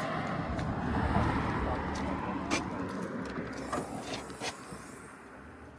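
Peugeot 208's 1.2 PureTech three-cylinder petrol engine running, swelling in level about a second in and then easing off, with a few sharp clicks later on.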